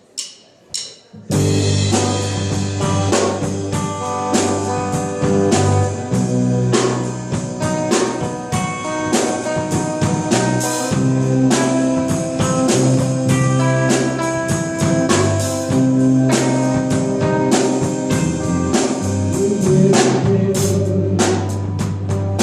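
Live cover band starting a song: a few sharp clicks, then about a second in, drum kit, bass and guitar come in together and play a steady instrumental intro with no singing.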